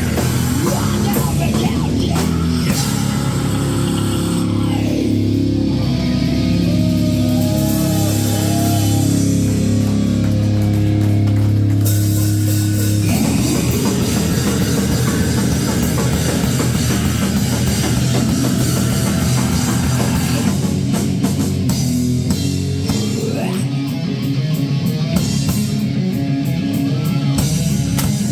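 Rock band playing live: distorted electric guitars over a drum kit, loud and continuous, with the arrangement shifting to a denser section about halfway through.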